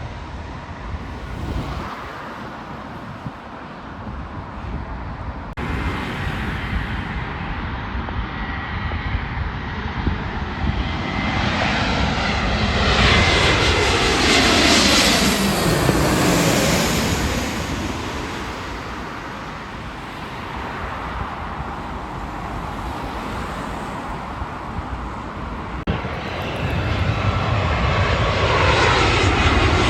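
Jet airliner passing close by. Its engine noise builds to a peak about halfway through, its whine falls in pitch as it goes past, then it fades, and the noise rises again near the end.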